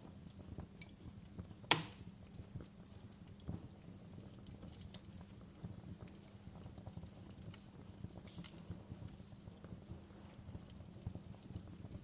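Wood fire crackling, with frequent small pops and one loud sharp pop a little under two seconds in, over a low steady rumble.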